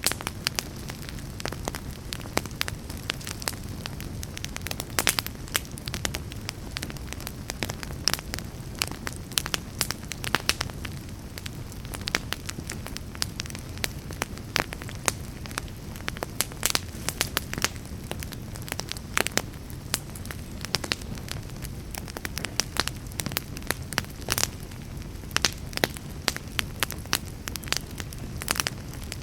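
Fireplace fire burning: a steady low rumble of flames with frequent sharp crackles and pops.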